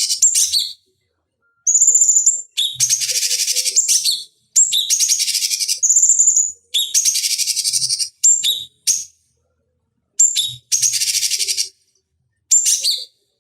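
Cucak cungkok singing: repeated phrases that each open with a short high clear whistle and run into a long, rapid, harsh chattering trill, with brief pauses between phrases. The phrases come shorter and choppier towards the end.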